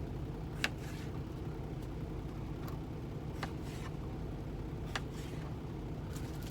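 Steady low hum of a semi truck's diesel engine idling, heard inside the cab, with a few sharp knocks as potatoes are cut and dropped into a crock pot.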